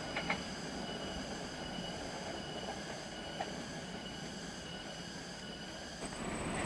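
Passenger train rolling along the track, a steady rumble with a few faint wheel clicks, growing louder near the end.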